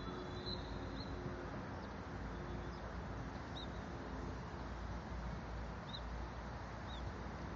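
Outdoor background: a steady low rumble, like wind or distant traffic, with a few short high bird chirps scattered through it.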